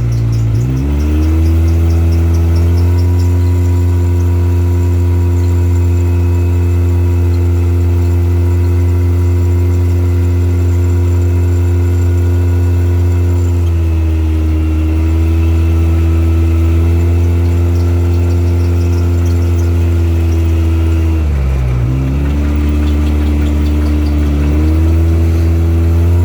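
A vehicle engine running at a steady speed. Its revs climb back up at the very start, dip slightly just past halfway, and drop sharply then climb back about four-fifths of the way in.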